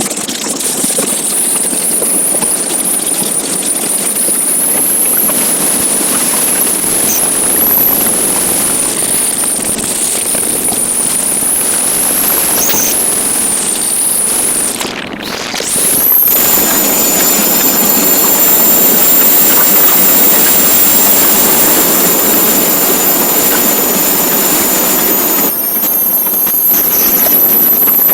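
Motorcycle on the move: steady engine and wind noise with a high thin whine on top. About fifteen seconds in the sound dips briefly, then the whine sweeps up and holds higher and louder.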